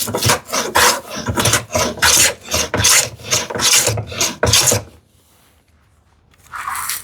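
Combination plow plane cutting a groove in a wooden drawer side: quick short strokes, about three a second, each with a scraping hiss of the blade shaving the wood. The strokes stop about five seconds in, and one more follows near the end.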